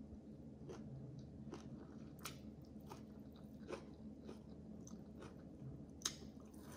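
A person chewing and biting food close to the microphone, with about half a dozen short, sharp clicks from the mouth at irregular intervals.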